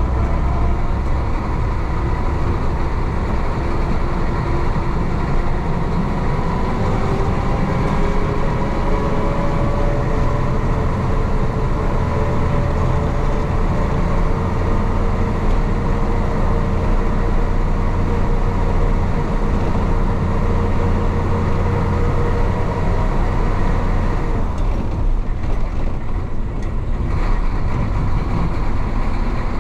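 Isuzu DA640 diesel engine of a 1966 Isuzu BXD30 bonnet bus running under load, its pitch slowly rising and falling with the revs. The engine note eases back for a few seconds near the end.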